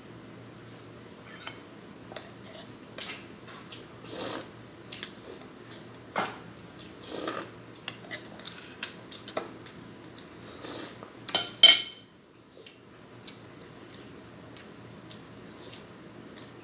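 Eating at a table: scattered clicks, taps and clatter of utensils and dishes, with a louder pair of clatters a little past the middle, over a faint low steady hum.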